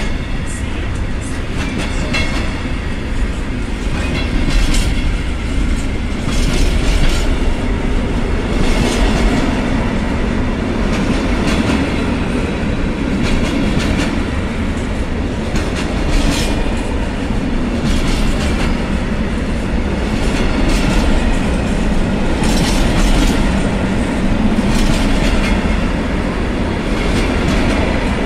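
Class 66-hauled freight train rolling past: a constant low rumble, with its wheels clattering over rail joints about every two seconds.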